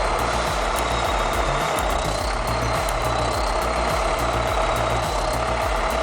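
Heavy-equipment diesel engine running steadily, with a held whine over it.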